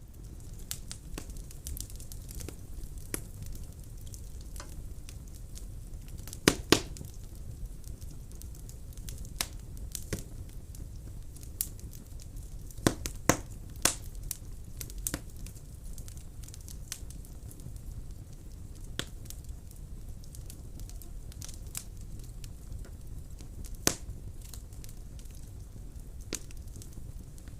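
Wood burning in a fireplace: irregular sharp crackles and pops over a low steady rumble of the flames. A few louder pops come about six and a half, thirteen and fourteen seconds in.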